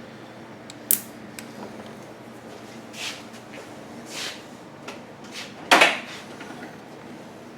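Small clicks and brief rustles of pliers and a small hose clamp being handled while the clamp is fitted onto a rubber fuel hose. There is a sharp click about a second in, and a louder click with a short scrape near the end.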